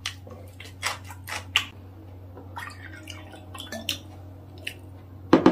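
Close-miked chewing of a mouthful of cheese fried rice: a string of small wet clicks and squelches over a steady low hum, with a louder brief clatter near the end.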